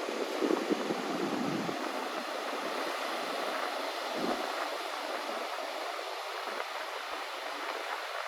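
Baltic Sea surf washing onto a sandy beach on a windy day, a steady rushing noise. Wind gusts buffet the microphone in the first couple of seconds.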